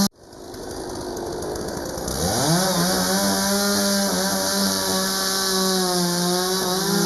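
Chainsaw cutting loose almost to nothing at the start, then revving up about two seconds in and running steadily at high speed, as a fallen tree is cut up for clearing.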